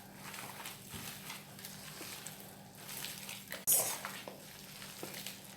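Faint squishing and rustling of soft black soap paste being mixed and worked by gloved hands, with one sharper rustle about two thirds of the way in.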